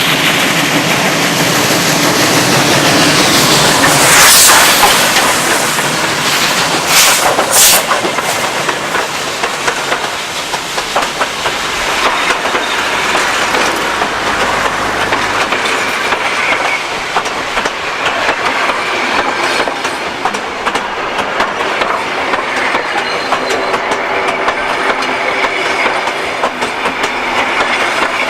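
Train running along the track, its wheels clicking over the rail joints with a continuous rushing rumble. Louder surges come about four seconds and again about seven seconds in.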